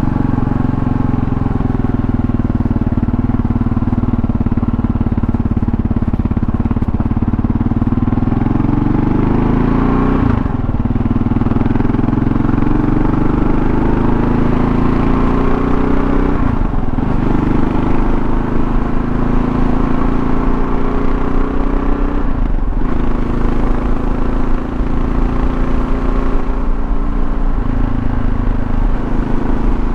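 2024 Kawasaki KLR650's single-cylinder engine running under way. Its pitch climbs, then breaks and drops three times, about six seconds apart, like upshifts through the gears.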